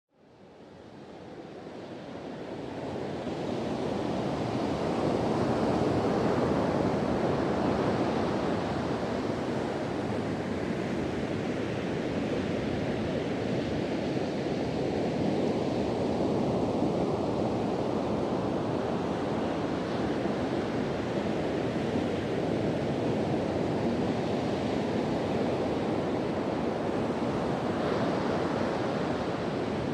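Sea surf washing steadily onto a beach, with wind blowing over the microphone. The sound fades in over the first few seconds.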